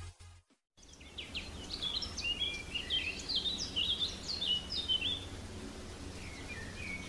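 The tail of electronic intro music fades out at the start. After a short silence, bird chirping begins about a second in: a rapid, uneven series of short, high chirps that fall in pitch. The chirps thin out near the end, over a faint low hum.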